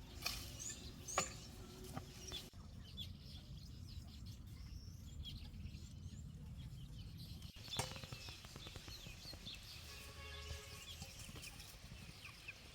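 Birds calling faintly over a low steady rumble, with two sharp clicks in the first second or so and denser high chirping in the second half.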